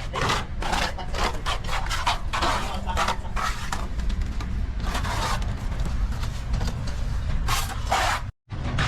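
Plastering trowel scraping across a wall in quick repeated strokes, over a steady low rumble. The sound cuts out for a moment near the end.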